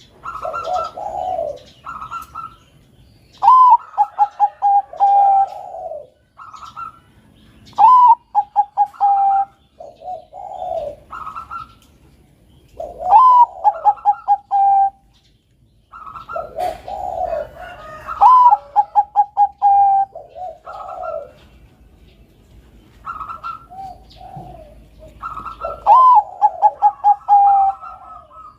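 Bangkok-type perkutut (zebra doves) cooing. The song comes in repeated phrases, each a rising note followed by a quick run of five or six short notes, about every five seconds. Lower coos overlap the phrases, with faint high chirps in between.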